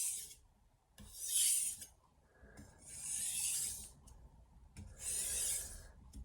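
Stainless steel santoku blade stroked back and forth on a wet 1000-grit soaking whetstone: four rasping strokes about a second apart, each starting with a light click. This is the deburring stage, with the burr still clinging to the stainless edge.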